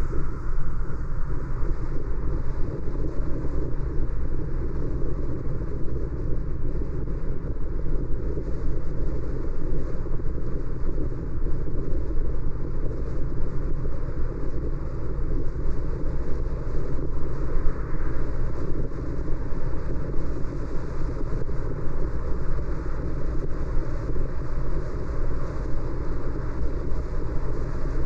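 A car driving, a steady rumble of road and tyre noise with no clear engine note.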